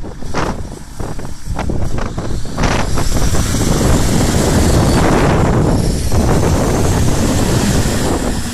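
Mitsubishi Pajero driving off-road, its engine running hard with wind buffeting the microphone. The sound comes in uneven gusts at first, then grows louder about three seconds in and holds steady.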